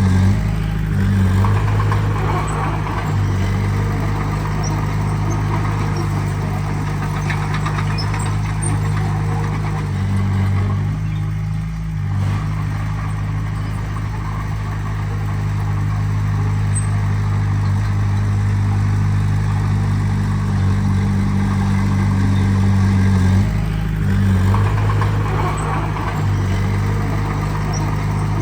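Diesel engine of heavy earthmoving machinery running steadily, its pitch shifting briefly a few times.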